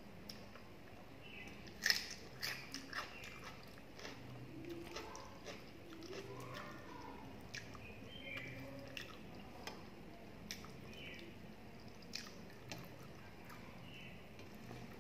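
Close-up eating sounds: a person chewing a mouthful of watery panta bhat (rice soaked in water) and eaten by hand, with scattered wet mouth clicks and smacks, the sharpest about two seconds in.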